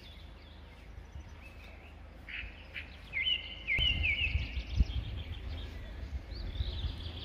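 Small songbirds chirping and singing, with short repeated slurred notes. Under them a low outdoor rumble grows stronger about halfway through.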